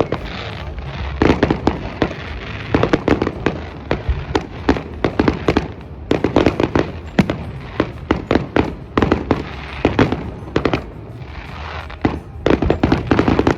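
Fireworks going off in a display: clusters of sharp bangs and rapid crackling, with dense volleys about a second in, around three seconds, around six to seven seconds and again near the end.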